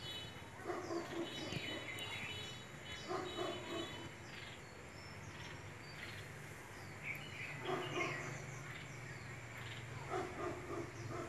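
Small birds chirping: short, high notes that slide downward, repeated many times at irregular gaps. A dog barks in the distance in a few short bouts, about a second in, around three seconds, near eight seconds and near the end.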